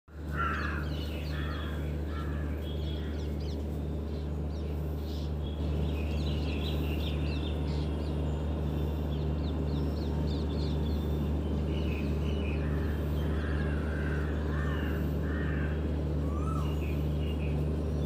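Several birds calling and chirping over a steady low hum.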